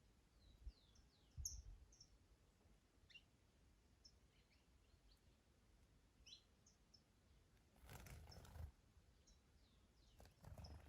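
Faint birdsong in a garden: scattered short chirps and quick falling whistles from small birds. About eight seconds in and again near the end, a brief rush of wind.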